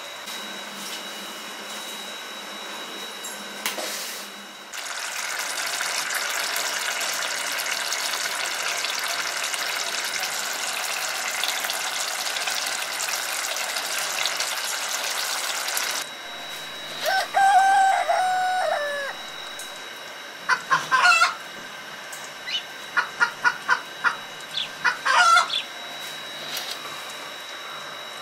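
A steady hiss of curry simmering in the pot cuts off suddenly. A rooster then crows once, and a chicken follows with a quick run of short clucks.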